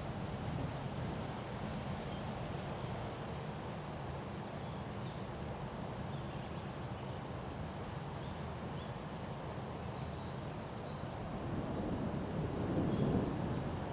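Wind blowing steadily in a windstorm, with a stronger gust swelling near the end. Faint short bird chirps come through now and then.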